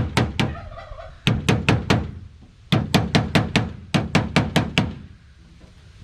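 Quick runs of sharp taps, about five a second, as staples are driven into a wooden hive board. Three runs, the longest about two seconds, with a lull near the end.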